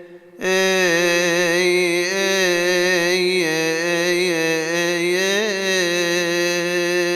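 Solo male voice chanting a Coptic Orthodox hymn: after a breath about half a second in, one long melismatic phrase held on a single vowel, its pitch wavering in small ornaments.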